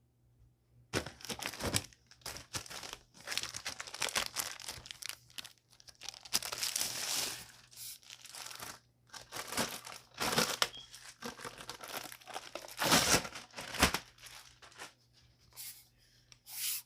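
Packaging being crinkled and torn open by hand, in irregular rustling bursts with short pauses.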